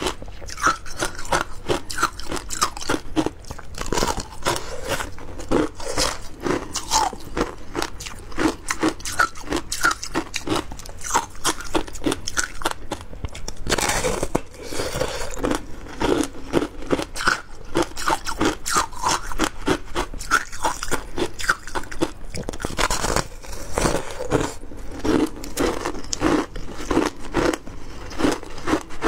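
A person biting and chewing frozen passion fruit shaved ice close up, in a rapid, continuous run of crunches, with a couple of brief denser grinding patches.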